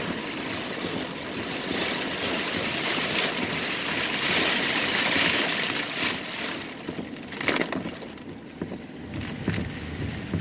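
Heavy rain hammering on a car's roof and windshield, heard from inside the cabin, heaviest over the first six seconds and then easing, with a few sharp knocks in the last part.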